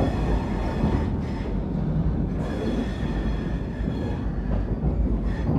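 Vande Bharat Express electric train running at speed, heard from inside a passenger coach: a steady rumble of wheels on the rails. A short knock comes at the very start, and a faint high whine comes and goes in the middle.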